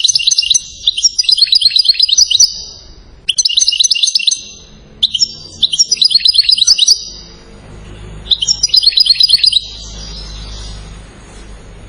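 European goldfinch singing: four phrases of fast, high twittering trills separated by short pauses.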